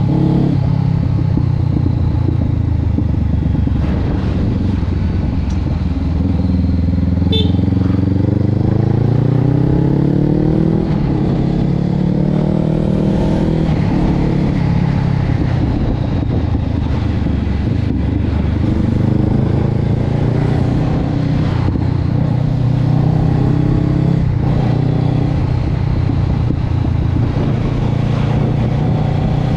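Honda CB500X's parallel-twin engine running through a Termignoni aftermarket exhaust, its pitch rising and falling slowly over several seconds at a time.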